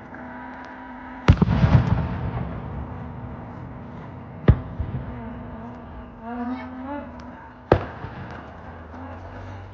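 Fireworks shells bursting: three sharp bangs about three seconds apart, the first followed by about a second of crackling and rumble.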